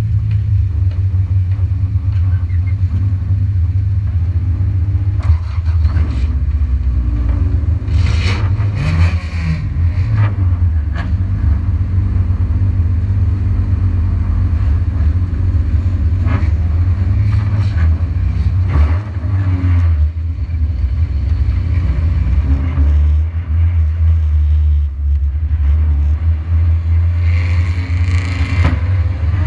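Race car engine idling with a steady, heavy low rumble, heard close up through a hood-mounted camera, then rising in pitch as the car accelerates away near the end.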